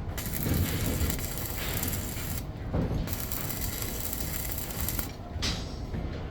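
Steady mechanical noise with a rattling, clattering quality, its hiss briefly dropping out twice.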